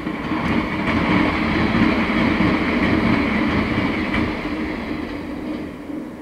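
Electric passenger train passing at speed on the line: its running noise swells, holds for a few seconds and fades away as it goes by, with a few sharp clicks from the wheels on the track.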